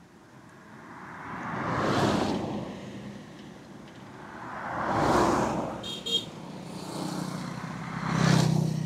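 Motor vehicles passing one after another on a road, each swelling and fading away: three passes, about two, five and eight seconds in. A brief high-pitched beep comes about six seconds in.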